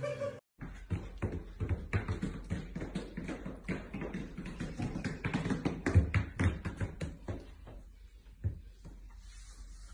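Dogs in boots stepping on stairs: a run of irregular taps and knocks from their booted feet, thinning out near the end.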